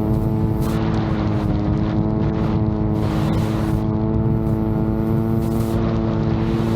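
VTOL drone's motors and propellers running with a steady, even-pitched hum, while gusts of wind buffet the microphone.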